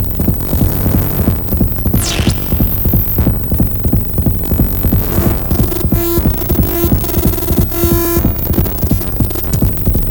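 Electronic music from a hardware synthesizer and drum-machine jam: a throbbing bass with rapid rhythmic pulses. About two seconds in, a high swoosh dips down and back up. From about six to eight seconds in, a buzzy held synth note rings with many overtones.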